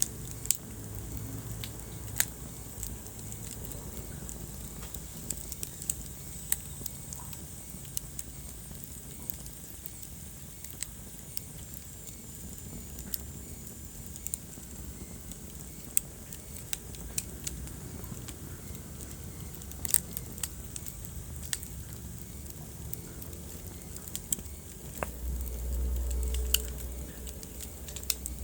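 Wood fire crackling in a fireplace: irregular sharp pops and snaps over a steady low rumble, with the rumble swelling louder for a couple of seconds near the end.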